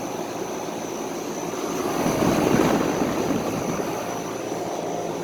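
Vintage Day & Night 2-ton air conditioner condensing unit running just after start-up. Its big reciprocating compressor, which the owner takes for an old Tecumseh, gives a steady hum under the rush of air from the condenser fan. The air rush swells louder for about a second around two seconds in.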